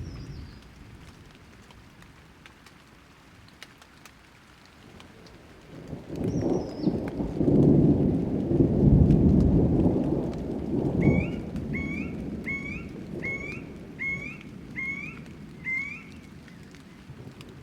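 Thunder rumbling over steady rain: the rumble swells about six seconds in and dies away over several seconds. Near the end a bird repeats one short call seven times at an even pace, and there are brief high chirps near the start and about six seconds in.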